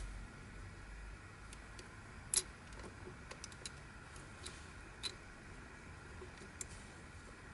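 Plastic twisty-puzzle pieces clicking and tapping as they are handled, a dozen or so scattered sharp clicks, the loudest about two and a half seconds in.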